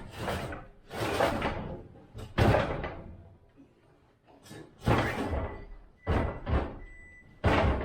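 A series of about seven sharp bangs and knocks at uneven intervals, with quieter gaps between them.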